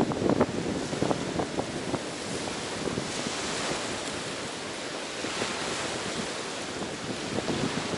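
Ocean surf washing onto the beach, swelling twice midway, with wind buffeting the microphone in crackly gusts in the first second or so.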